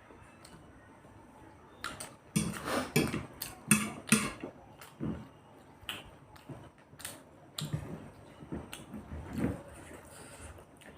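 Close-up eating sounds of chicken chow mein: wet chewing and sharp mouth clicks in irregular bursts, starting about two seconds in.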